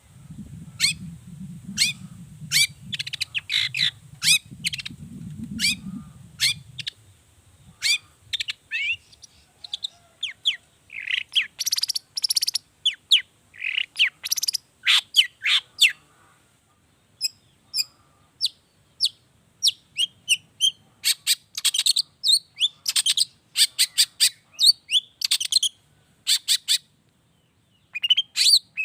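Long-tailed shrike (cendet) singing a rapid, varied string of short sharp chirps and calls, in bursts with brief pauses. A low rumble sits under the song for the first several seconds.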